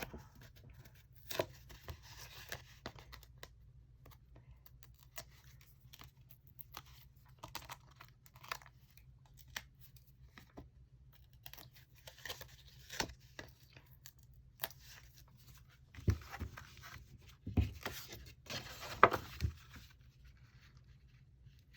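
Hands handling cardstock and foam adhesive pieces on a craft table: scattered light taps and short paper rustles, busier about twelve seconds in and again from about sixteen to nineteen seconds.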